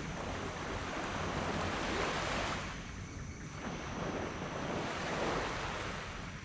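Small tropical waves breaking and washing up a sand beach, the surf swelling twice about three seconds apart over a steady low rumble.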